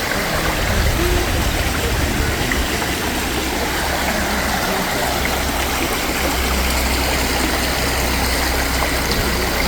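Shallow rocky river rushing over stone slabs: a steady, even rush of flowing water.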